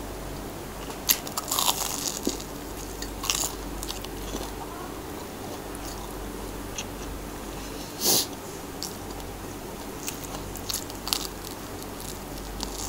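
Close-up mouth sounds of a person chewing a crispy deep-fried Korean corn dog, with sharp crunches every few seconds, the loudest about a second in and about eight seconds in, and another bite near the end.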